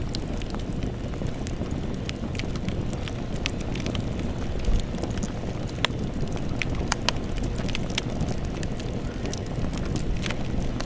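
Campfire burning, a steady low rumble of flames with irregular sharp crackles and pops from the burning wood.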